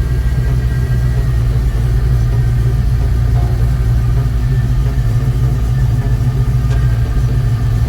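A 383 stroker small-block V8 running steadily, with no change in revs.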